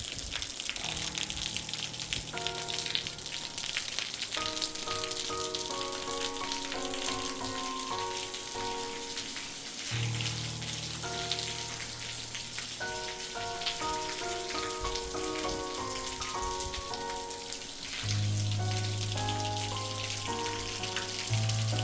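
Steady rain falling, a constant hiss of drops, with background music playing over it: a melody of short stepped notes over a deep bass line that grows louder near the end.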